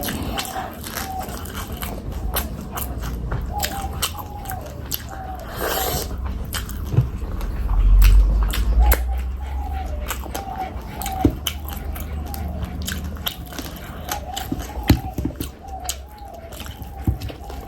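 Close-miked wet chewing and smacking of someone eating fish curry and rice, with many short clicks, and a low thud about eight seconds in.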